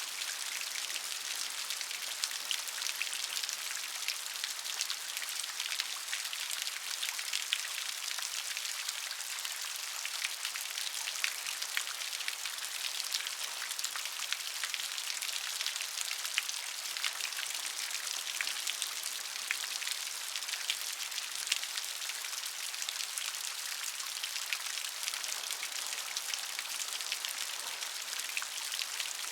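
Steady gentle rain: an even hiss of falling rain with many small, close drop patters on a surface.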